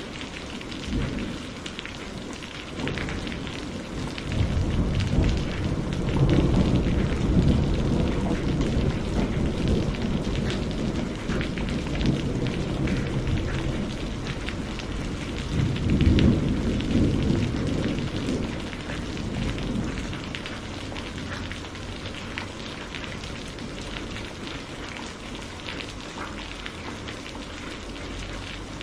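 Steady rain falling, with rolling thunder rumbling low twice, a long roll starting about four seconds in and a second swell past the middle, then easing off to rain alone.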